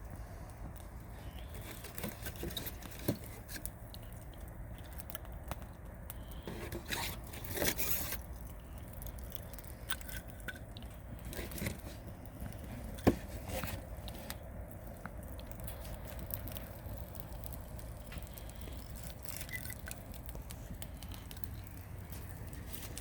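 Wood campfire crackling, with scattered sharp pops and one loud pop about halfway through. A breathy rush of air around a third of the way in is the cold camera operator's breath.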